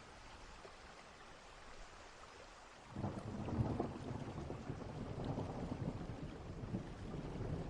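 Distant thunderstorm: steady rain hiss, then about three seconds in a low thunder rumble begins and rolls on under the rain.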